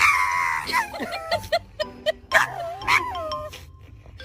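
A dog whining and yipping in a string of short, high-pitched cries that bend up and down in pitch.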